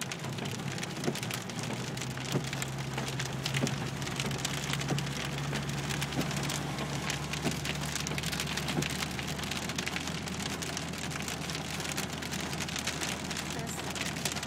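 Heavy thunderstorm rain falling steadily on a surface, with many sharp individual drop hits, over a low steady hum.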